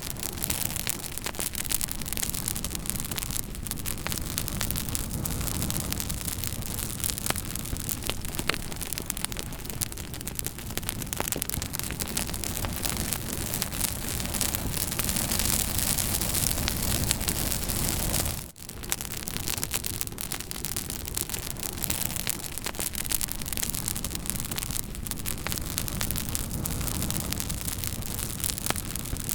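Campfire burning, with steady crackling and frequent sharp pops of burning wood. The sound drops out for a moment about two-thirds of the way through, then carries on.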